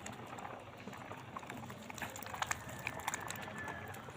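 Small birds chirping in many short, sharp notes, with one thin whistle held for under a second about three seconds in.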